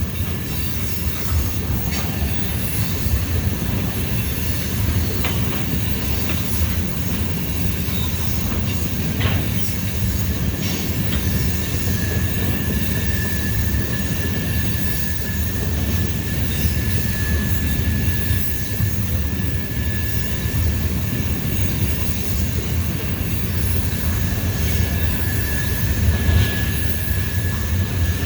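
Freight cars of a long CSX train rolling past close by: a steady rumble of wheels on rail with scattered clicks. A thin, steady, high-pitched wheel squeal sets in about twelve seconds in and holds.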